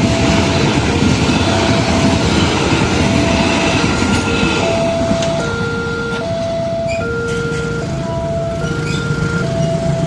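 Railway level-crossing warning alarm sounding its alternating two-tone electronic signal, changing about every half second, over the rumble of a train passing on the track; the rumble eases after about six seconds.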